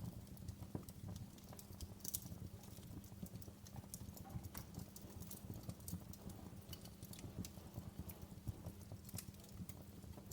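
Wood fire crackling in a fireplace: irregular sharp pops and snaps over a low, steady rumble from the flames.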